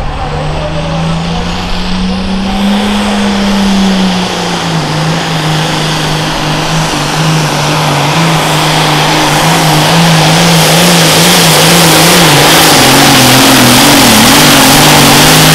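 Heavily modified diesel super farm tractor engine running at full throttle under load on a pull, growing steadily louder, its note holding fairly level and wavering in pitch near the end.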